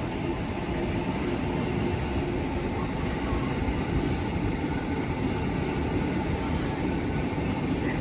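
Ex-Tokyo Metro 6000-series electric commuter train running through the station: steady wheel-and-track noise with a faint hum, at an even level throughout.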